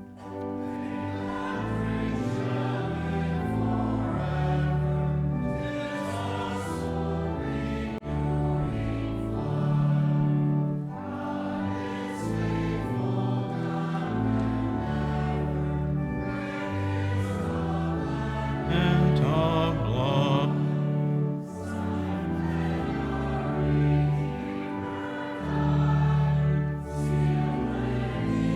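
Church music: voices singing over held chords that change every second or two.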